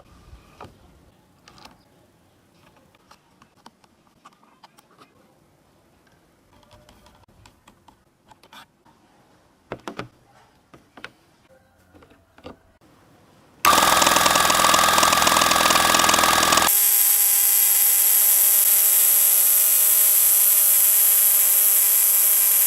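Faint clicks and handling sounds, then about fourteen seconds in a homemade electric air compressor switches on and runs loudly and steadily. About three seconds later its sound changes to a steady whine with a high hiss.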